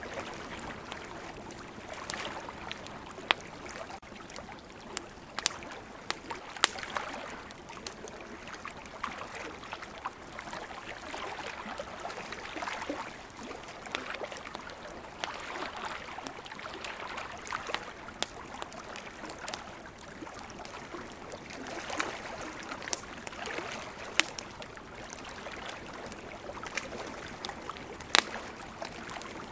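Campfire crackling, with sharp pops at irregular intervals over a steady rushing hiss that swells and fades slowly.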